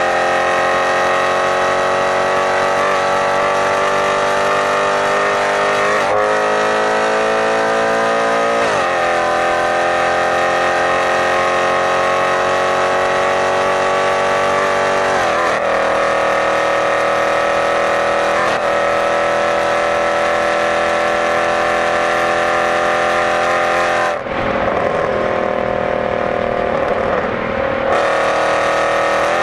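Mercedes-Benz C63 AMG's 6.2-litre V8 pulling hard at high speed, its pitch climbing slowly and stepping at a few gear changes. About 24 seconds in the revs fall away for a few seconds as the throttle is eased off, then the engine pulls again near the end.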